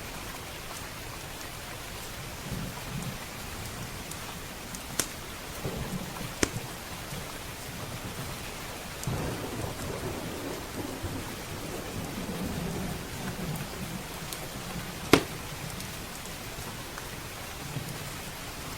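Steady heavy rain hissing on windows and roof, with rolling thunder rumbling low and swelling strongest in the middle. A few sharp pops from a crackling wood fire cut through, the loudest about fifteen seconds in.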